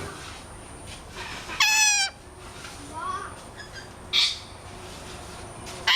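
Birds calling: a loud, harsh call with a falling pitch about a second and a half in, a short rising chirp, then a short screech a second later.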